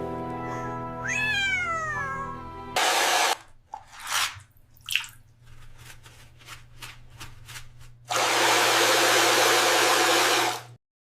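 A cat's meow falling in pitch over a steady held musical tone, then a short burst of noise and a string of clicks. Near the end comes a loud rushing of water, like a toilet flushing, for about two and a half seconds before it cuts off.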